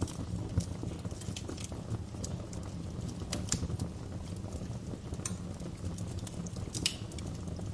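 Wood fire in a fireplace burning with a steady low rumble and irregular crackles and pops, a few louder snaps scattered through.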